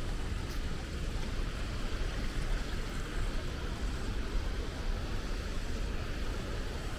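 Naena Falls waterfall: a steady rush of falling water, an even roar with no breaks.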